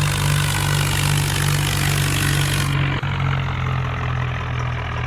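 A tractor engine idling steadily with an even low hum. About three seconds in there is a brief click and the high hiss drops away, while the idle goes on.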